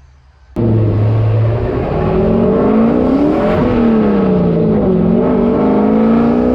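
Turbocharged LS V8 engine of a stock car revving hard, its pitch climbing and falling several times; it cuts in abruptly about half a second in.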